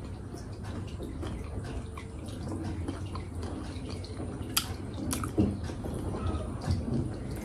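Someone chewing and eating, with wet mouth sounds and a few sharp clicks about four and a half, five and a half and seven seconds in, over a steady low background hum.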